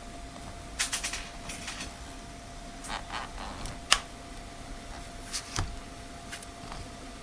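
Scattered sharp plastic clicks and snaps in small clusters, the loudest one a little under four seconds in, as the tablet's case is pried open during disassembly.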